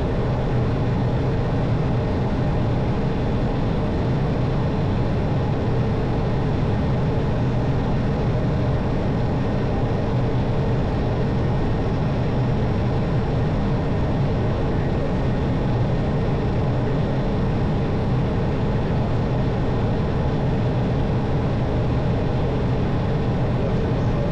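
Steady, even drone of an Airbus airliner's engines and airflow, heard from on board with no rise or fall.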